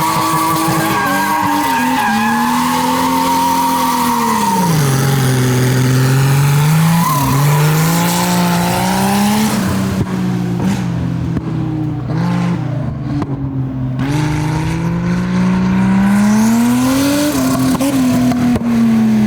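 Nissan R32 Skyline's turbocharged RB20E straight-six revving up and down while the car is drifted, with tyres squealing over the engine. The tyre noise eases off for a few seconds in the middle, and the engine revs climb again near the end before dropping.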